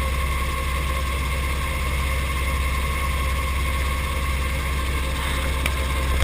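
Brantly B2B helicopter's piston engine and rotors running steadily as a constant low drone.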